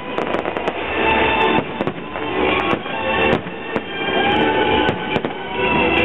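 Fireworks display: a rapid, irregular run of bangs and crackling pops from bursting shells, with music playing at the same time.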